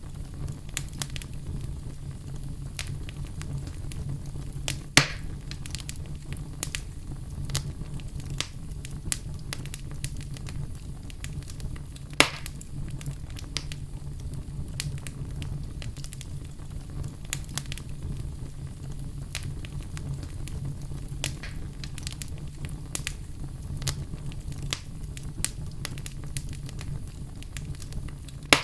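Wood fire burning in a fireplace: a steady low rumble of flames under constant small crackles, with two louder pops about five and twelve seconds in.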